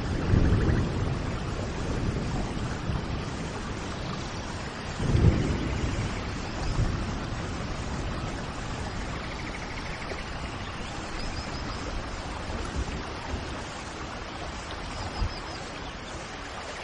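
Steady rain with low rolls of thunder, the loudest about five seconds in and a weaker one near the end. Faint, brief bird chirps come through twice in the second half.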